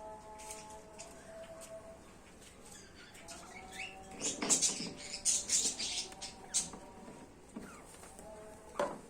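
Small birds chirping in high, scratchy calls, bunched from about four seconds in and once more near the end, with short clicks and a steady hum underneath.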